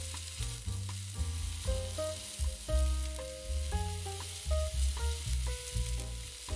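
Mushrooms and onion sizzling as they fry in a pan, stirred with a spatula, with background music playing under the sizzle.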